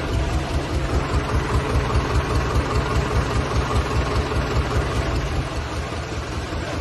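Restored Ford tractor engine idling with an even, low pulsing beat.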